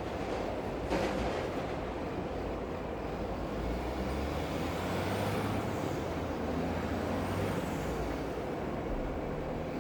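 Layered city ambience: a large vehicle rumbling past over a constant hiss, its low hum swelling in the middle, with a faint high gliding whine at the same time and a single knock about a second in.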